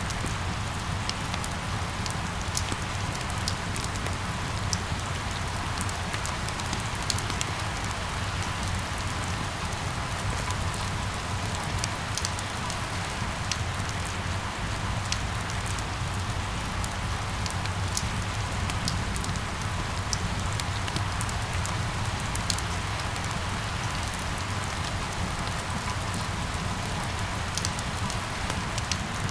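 Steady rain falling, with many small drop ticks scattered through it over a low, even rumble.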